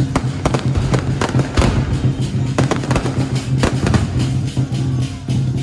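Firecrackers popping in irregular sharp cracks over loud music with a steady, pulsing low beat.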